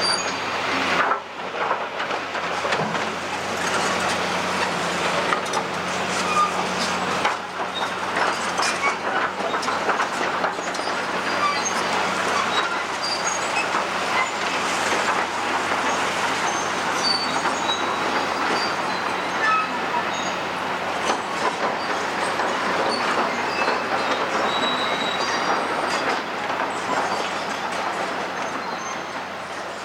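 Caterpillar 345D tracked excavator working demolition rubble: a constant scraping, crunching noise with scattered high metallic squeaks and clanks, over a steady engine tone that fades out about a third of the way in.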